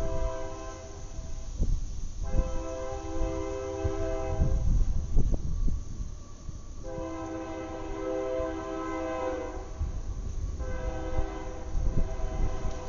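Train horn sounding a series of long blasts, each a steady chord of several tones, with short gaps between them. A low rumble with irregular thumps runs underneath.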